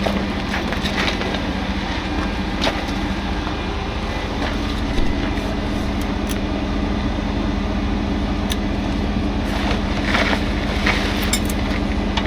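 Heavy diesel truck engine idling steadily, with a few sharp clicks and knocks over it, more of them near the end.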